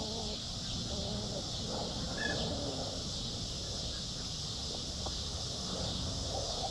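Hens clucking softly while foraging, short wavering calls in the first second or so and again later, over a steady high hiss.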